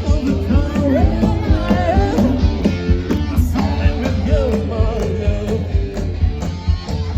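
Live rock band playing, with a singer's voice over electric guitar, bass and drums.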